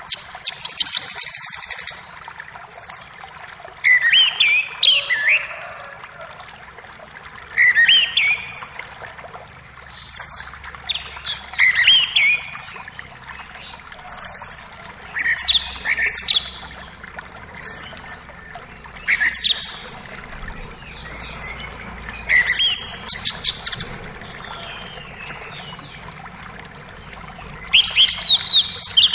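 Songbirds singing and calling in short, quick chirped phrases that repeat every second or two, over the faint steady rush of a forest creek.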